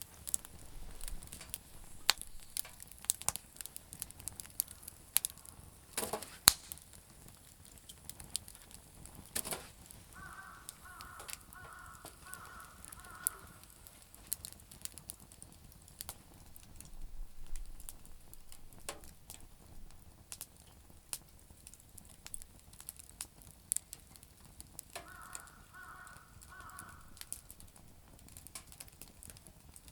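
Campfire of damp firewood crackling, with scattered sharp pops and snaps. A crow caws twice, each time a run of about four caws.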